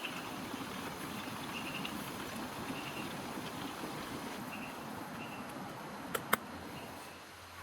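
Steady rain pattering, with faint insect chirps repeating now and then. Two sharp clicks come near the end.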